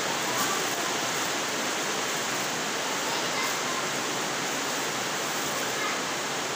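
Heavy rain pouring down, a dense and steady hiss.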